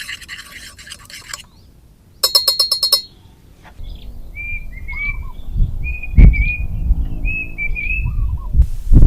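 A bird calling in a series of short whistled phrases, about one a second, over a low rumble with a sharp thump partway through. Before it come a brief scratching noise and a short, fast rattle.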